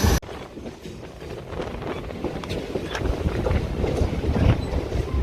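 Mumbai suburban electric local train running, heard from inside the coach: a low rumble with a few wheel clicks over the rail joints. The level drops sharply just after the start, then builds slowly.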